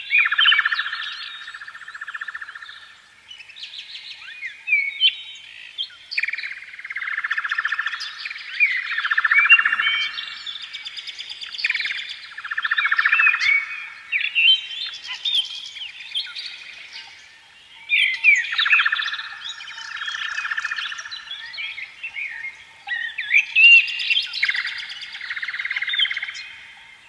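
Several birds chirping and warbling continuously, with many quick calls overlapping.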